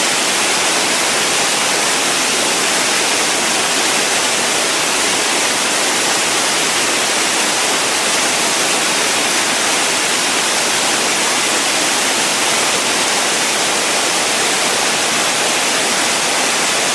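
Steady white noise: an even, unchanging hiss spread across all pitches, heavier in the highs.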